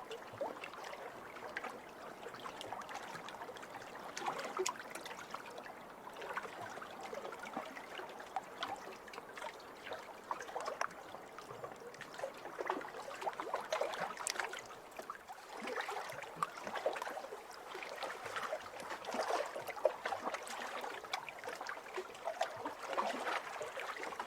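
Small waves lapping over a pebble shore: water washing in and draining back through the stones, with a constant fine clicking and trickling that swells and eases every few seconds.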